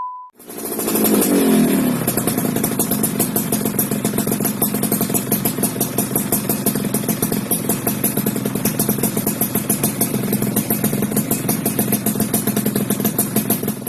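Yamaha F1ZR two-stroke single-cylinder engine breathing through an RTX racing exhaust: a rev falls away about a second in, then it idles steadily with a rapid, even exhaust beat.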